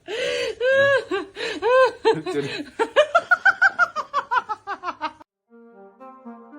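A person laughing hard in a long run of rapid ha-ha bursts that come faster and sink in pitch, cut off suddenly about five seconds in. Background music with held notes follows near the end.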